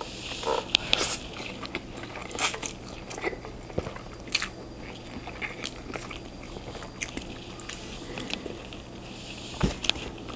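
Close-up sounds of a person eating chow mein noodles: wet chewing with irregular mouth clicks and smacks.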